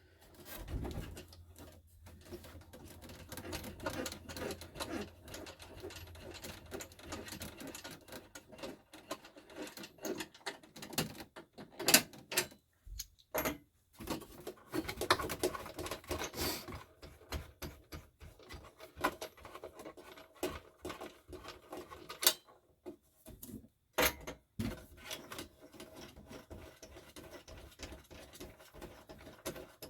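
Screws being taken out of a dash-mounted backup-camera monitor: irregular clicks, scrapes and handling noise of a screwdriver on the screws and plastic trim, with a few sharp knocks.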